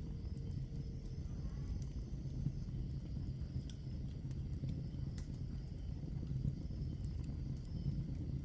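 Wood logs burning in a fireplace: a steady low rumble of the fire with scattered sharp crackles and pops, several spaced irregularly over a few seconds.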